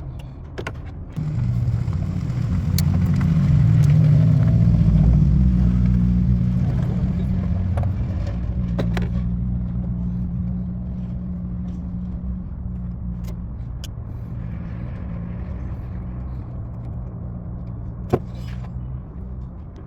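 Toyota Highlander's 3.5-litre V6 starts about a second in and idles, louder for the first several seconds, then settling to a steadier, lower idle. A sharp click comes near the end.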